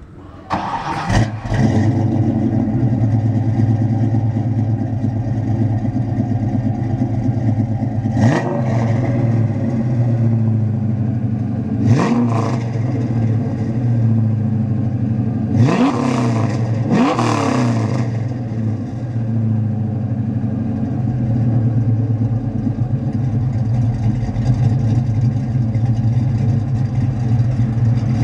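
Ford Mustang 5.0 V8 with a Flowmaster exhaust idling with a deep, steady burble, blipped about five times into quick revs that rise and fall back to idle.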